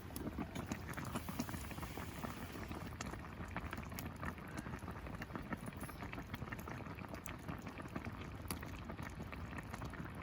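Food simmering in a pot, bubbling steadily with a dense patter of small pops.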